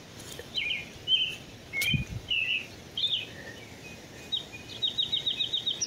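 Birds chirping: several short separate chirps, then a quick even series of about ten notes near the end. A low bump about two seconds in.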